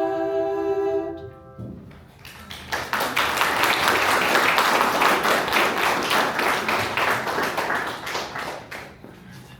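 A piano's last chord rings and cuts off about a second and a half in. Then an audience claps, dying away near the end.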